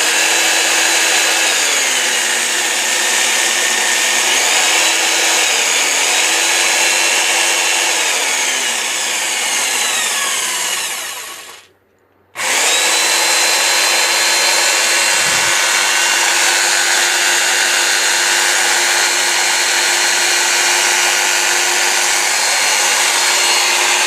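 Black & Decker 7580 variable-speed jigsaw motor running, its pitch stepping down and back up several times as the trigger speed is varied. It winds down and stops about 12 seconds in, then starts again and runs at one steady speed.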